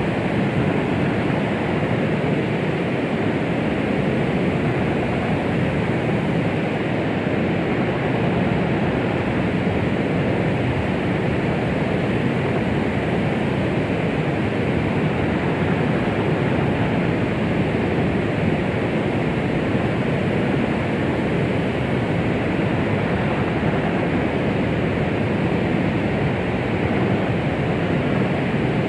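Steady white noise of the 'womb sound' kind made for soothing a baby: an even, unbroken hiss weighted toward the low end, without rhythm or heartbeat.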